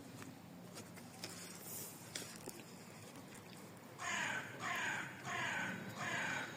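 A crow cawing four times in quick succession, harsh falling calls about two-thirds of a second apart, starting about two-thirds of the way through.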